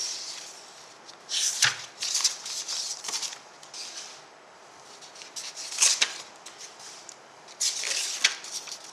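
Paper rustling and scratching in several short bursts, with a soft knock about one and a half seconds in.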